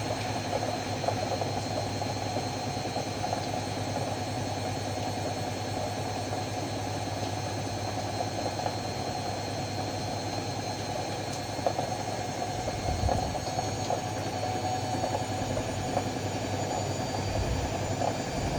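Ariston AML125 washer-dryer running with a steady motor hum, a few faint ticks and a brief low rumble about two-thirds through.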